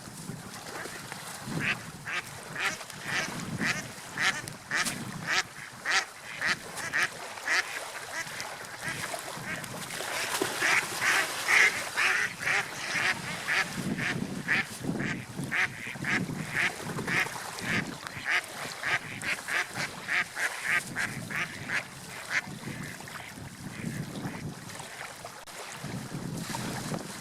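Gulls calling in rapid repeated squawks, a few a second, loudest near the middle, over a low surging wash of sea waves.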